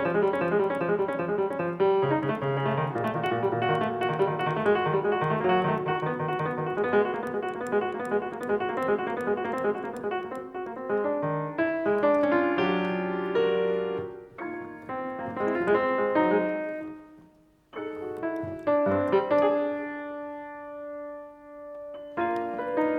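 Solo piano playing: a dense stream of rapid notes for about the first half, then slower, sparser chords with a brief pause past the middle, then held notes left ringing.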